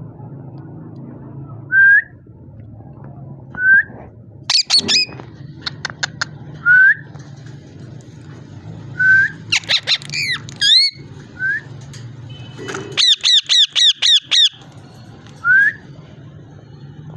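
Pet parrot calling: short rising whistles every couple of seconds, a harsh squawk and warbling notes around the middle, and a quick run of about eight repeated notes later on, over a steady low hum.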